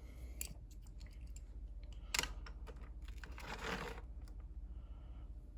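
Light scattered clicks and taps of a small die-cast toy car being handled, with one sharper click about two seconds in and a soft rustle a little after three seconds.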